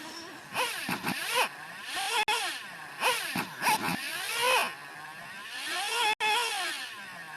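Small nitro engine of an R/C truck revving up and down in about six short bursts, the pitch rising and falling with each throttle blip.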